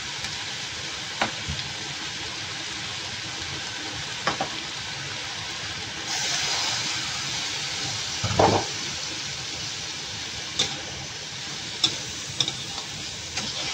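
Diced ash gourd and tempeh in spice paste sizzle in an oiled wok as a metal spatula stirs them, with a few sharp clicks of the spatula against the pan. The sizzle turns brighter and louder about six seconds in, and a louder scrape comes about two seconds later.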